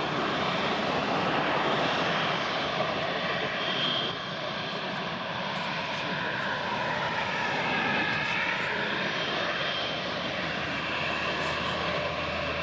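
Jet engines of a departing Airbus A320-200 airliner, a continuous roar. About halfway through, a whining tone rises and then falls in pitch as the aircraft passes.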